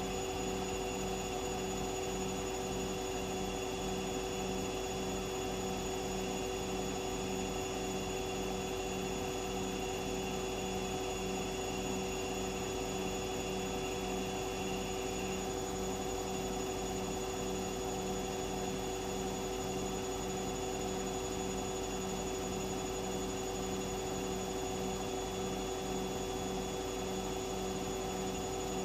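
Washing machine running: a steady motor hum with several fixed tones and a low throb pulsing about twice a second as the drum turns. A high whine drops out about halfway through.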